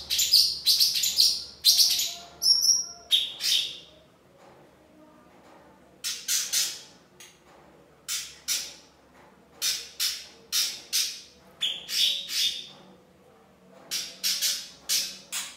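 A small animal's sharp, high-pitched chirping calls in quick runs, with a pause of about two seconds in the middle, then coming about twice a second.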